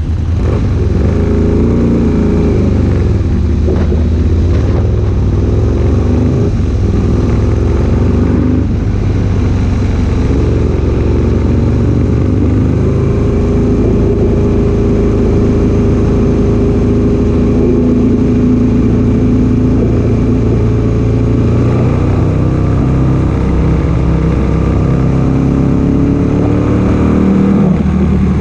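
Aprilia Tuono 1000R's 60° V-twin engine running hard at track pace, its revs climbing through the gears and dropping back again and again.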